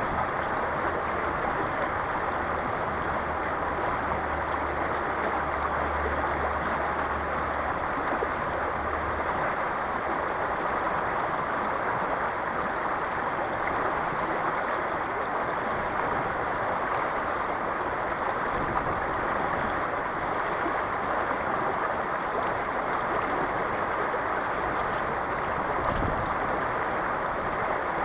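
River water rushing in a strong current: a steady, even rush.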